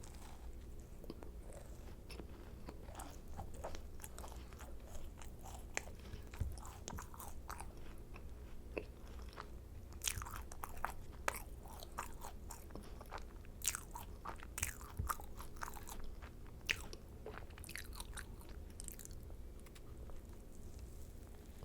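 Close-miked chewing of macarons, with short crisp crackles as the shells break between the teeth. The crackling is busiest from about ten to nineteen seconds in.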